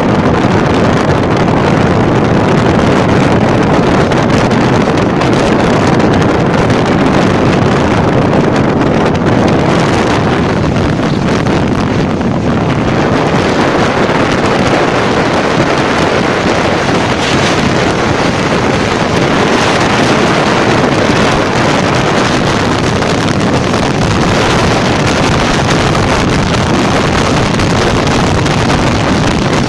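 Train running across a long rail bridge, heard from an open door or window: a steady loud rumble of wheels on the rails mixed with wind buffeting the microphone.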